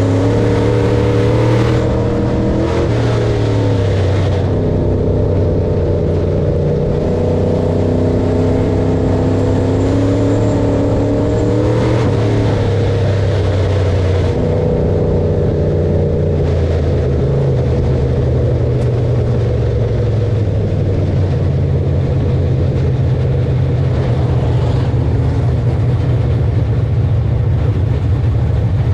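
Heavy farm machine engine running steadily under load, its pitch shifting down and up a few times.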